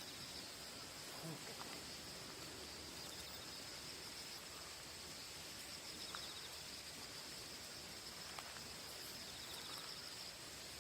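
Field crickets and other insects chirping steadily in a high continuous trill, with short pulsed chirps over a faint outdoor hiss. A few soft clicks are heard now and then.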